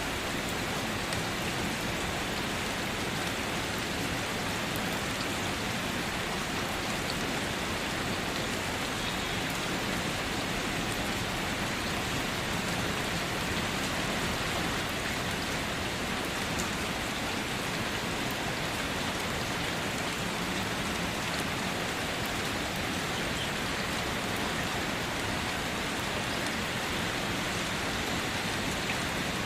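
Steady, even rainfall pattering on surfaces, with scattered individual drop ticks and no thunder.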